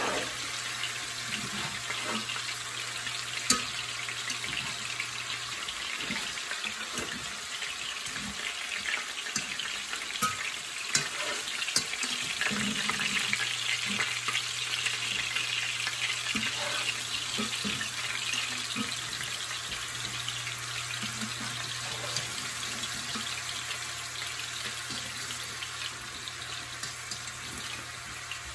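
Fish cakes frying in oil in a skillet, a steady sizzle, with occasional light clicks of a fork stirring green beans in a second pan.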